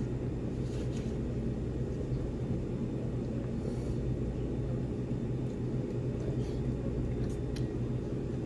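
Steady low room hum and rumble, with a few faint clicks near the end.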